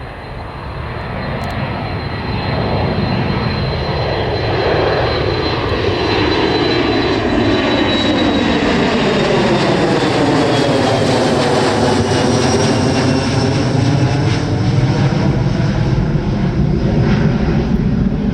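Boeing 737 airliner's jet engines at takeoff thrust as it climbs past, getting louder over the first few seconds and then holding steady and loud, with a faint high whine that slowly drops in pitch.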